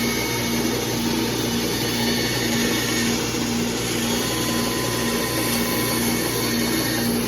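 Bandsaw and shop dust collector running together in a steady, even roar, with a low hum in it that pulses about twice a second.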